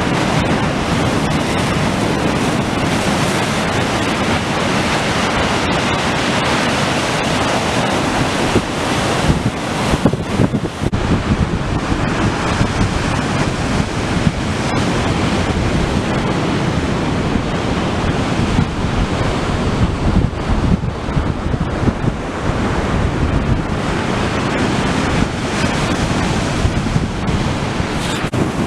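Storm surf pounding the shore, with strong gusting wind buffeting the microphone.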